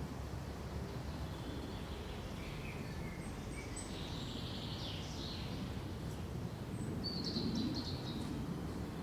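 Pine forest ambience: a steady low rustle of wind through the trees, with small birds chirping and calling at intervals, a cluster of calls near the middle and a brighter run of quick chirps about seven seconds in.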